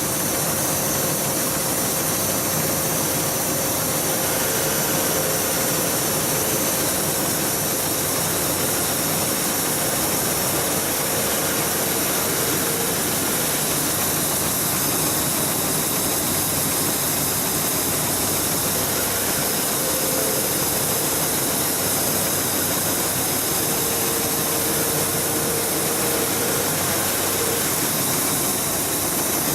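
Hightex BAS-14090 heavy-duty bridge-type pattern sewing machine running, a steady, unbroken mechanical noise with a hiss and no pauses.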